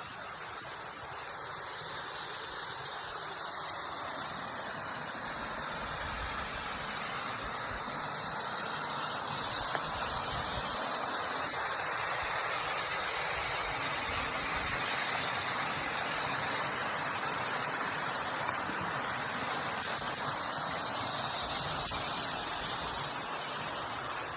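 Steady rushing of a rain-swollen waterfall, getting louder over the first ten seconds or so and then easing slightly.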